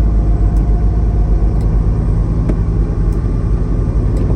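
Semi-truck's diesel engine running with a steady low rumble, with a few faint ticks scattered over it.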